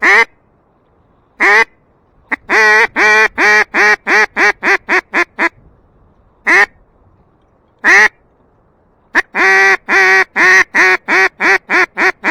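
Mallard duck call, the hen quack of a hand-blown reed call, working a passing duck: two single loud quacks, then a run of about a dozen quacks that grow shorter and quicker, then two more single quacks and a second quickening run, the hail-and-greeting pattern.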